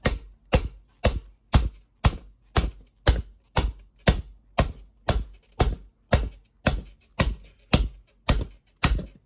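Steady, evenly spaced hammer blows, about two a second, each a sharp strike with a short ring.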